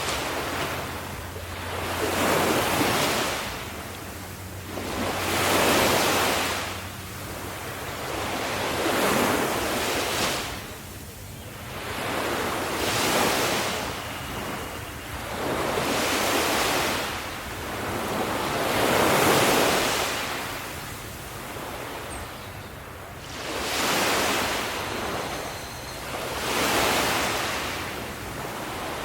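Ocean waves breaking on the shore, the surf noise rising and falling in surges about every three seconds.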